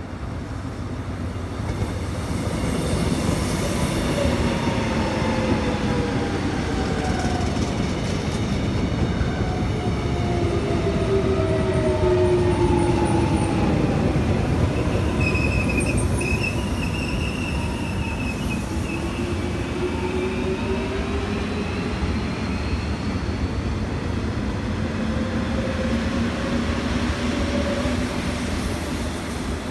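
Korail Class 361000 electric commuter train passing close by. Its rumble builds over the first few seconds and stays loud as the cars go by, with whining tones that fall in pitch through the first half and rise again later.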